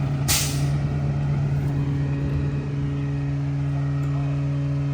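Mack MRU garbage truck's diesel engine running steadily, with a short, sharp hiss of released air about a third of a second in.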